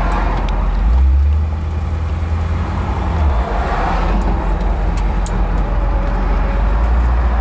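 1960 Ford Thunderbird's V8 engine pulling the car away from a stop, heard from inside the open convertible with road and wind noise. The low engine rumble swells about a second in and eases off about three and a half seconds in.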